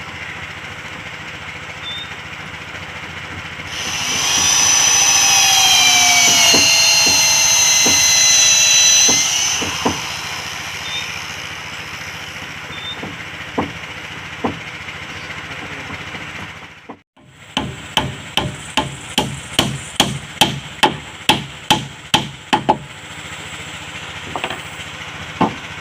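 An electric power tool runs for about six seconds, its whine sagging slightly in pitch before it stops. Later a hammer strikes wood in a steady run of blows, about three a second for five seconds, over a steady low hum.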